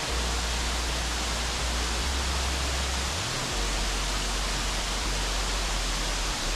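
Waterfall: a steady, dense rush of falling water with a low rumble underneath.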